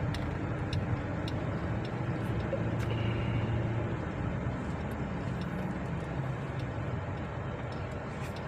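Car engine running steadily with a misfire, struggling to pull, which the mechanic puts down to the number 1 cylinder having no power.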